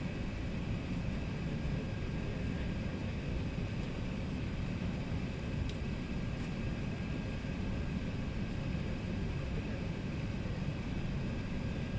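Steady cabin noise inside an Emirates Airbus A380: an even, low engine and airflow noise with faint steady tones above it. There is a faint click about halfway through.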